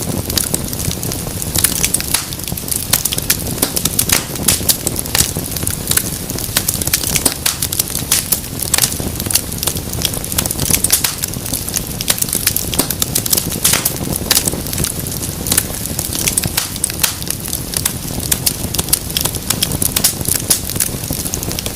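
Wood fire burning in a fireplace: a steady low rumble and hiss of flame with constant irregular crackles and sharp pops, several a second.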